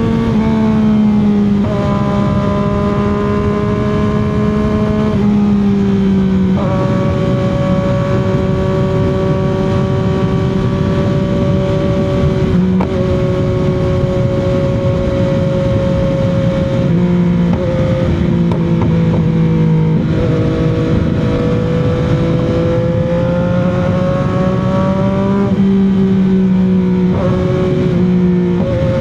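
CFMOTO 675 motorcycle's inline three-cylinder engine running at highway speed, its pitch stepping up and down several times with changes of throttle, over a steady rush of road and wind noise.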